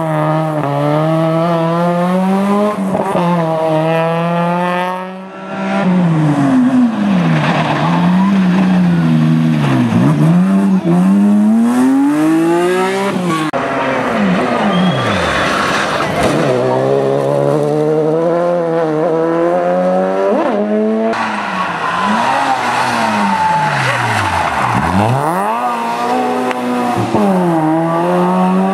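Rally cars driven hard on a special stage, engines revving high and dropping through gear changes as they go past one after another, with tyre squeal. The sound changes abruptly a few times where one car gives way to the next.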